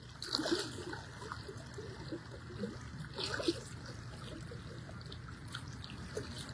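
Floodwater trickling and sloshing, a little louder for brief moments about half a second and three seconds in.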